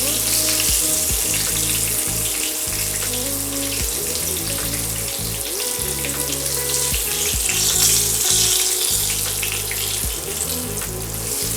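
Breaded chicken strips deep-frying in hot oil, a steady sizzle, with background music playing under it.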